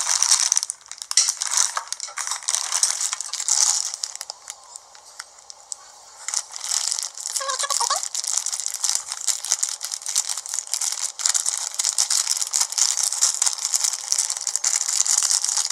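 Plastic packaging crinkling and rustling as a mail package is opened and its contents handled: a dense crackle of many small clicks, which eases off for a couple of seconds partway through and then picks up again.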